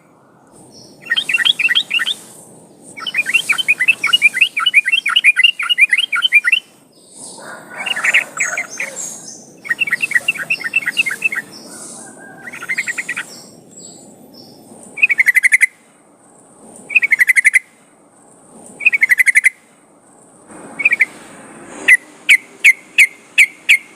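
Sooty-headed bulbul (trucukan) singing: bursts of rapid chattering notes, then short, loud phrases about every two seconds, and a quick run of single notes near the end.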